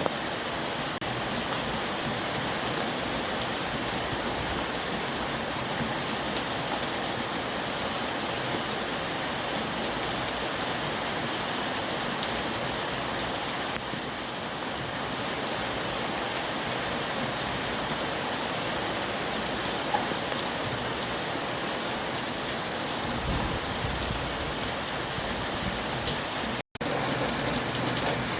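Heavy rain falling steadily, a dense even hiss of drops on surfaces. Near the end the sound cuts out for an instant and comes back slightly louder.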